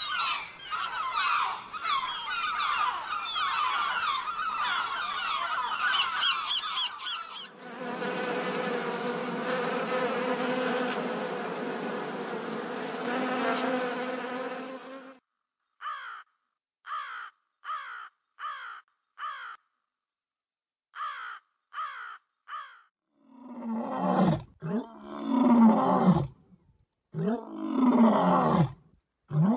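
A run of animal sounds: a flock of gulls and geese calling, then wasps buzzing steadily at their nest for about seven seconds, then about ten short falling chirps, then lions roaring in deep, repeated calls near the end.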